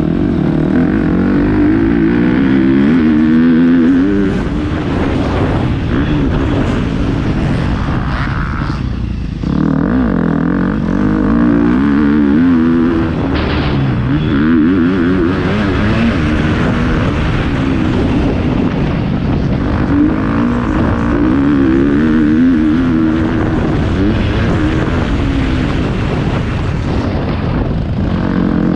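Motocross bike engine heard on board, revving up and falling back again and again as the throttle is worked through the gears. There is a brief drop in engine sound about nine seconds in.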